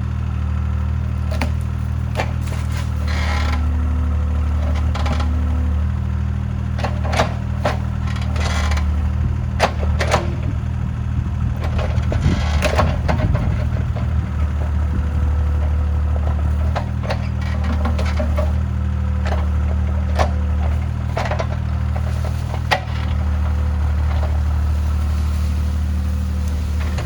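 Diesel engine of heavy earthmoving equipment running steadily under load, with repeated sharp cracks and snaps of wood breaking as trees and brush are pushed over, heaviest about halfway through.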